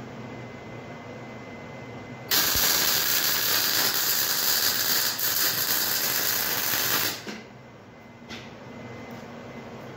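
MIG welding arc crackling in one steady run of about five seconds, starting suddenly a couple of seconds in and cutting off sharply, over a steady low hum.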